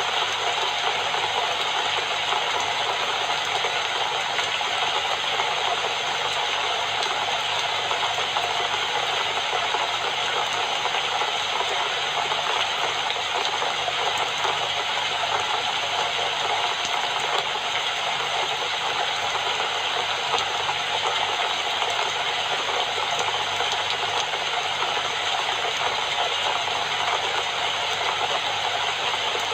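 Steady rain falling, an even dense patter of drops that holds at the same level throughout.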